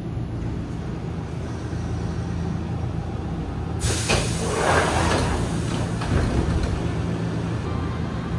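Steady low hum of a stopped electric commuter train's on-board equipment, heard inside the car. About four seconds in, a loud rush of noise starts suddenly, swells and slowly fades.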